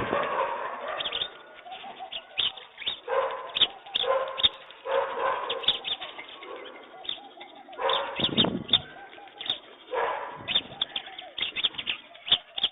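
Pigeons cooing, with bursts of wing flapping and many short sharp taps throughout.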